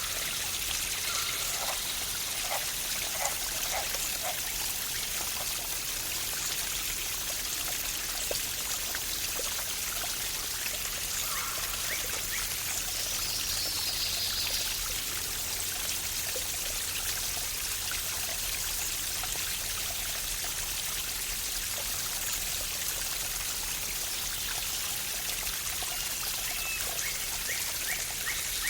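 Water of a small waterfall or cascade rushing and splashing steadily, an even unbroken hiss.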